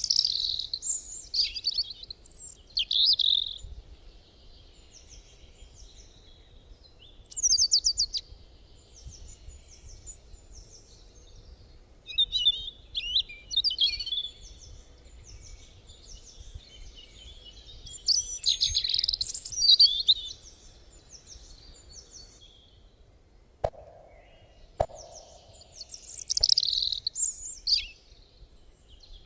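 Songbirds chirping and singing in bursts of quick high phrases a few seconds long, with quieter chirps in between over a low outdoor rumble. Two sharp clicks come about two-thirds of the way through.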